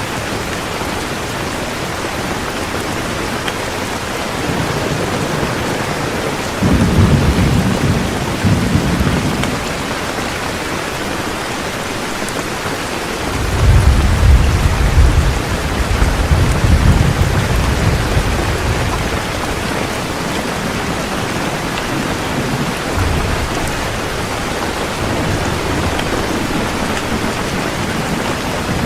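Heavy rain falling steadily, with thunder rumbling twice: a short roll about a quarter of the way in and a longer, louder roll near the middle.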